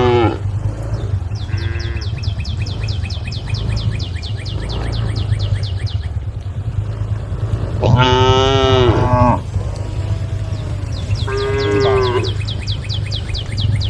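Cows mooing, several calls from the herd, the longest and loudest about eight seconds in. Between the calls a high rhythmic chirping at about six pulses a second runs over a steady low rumble.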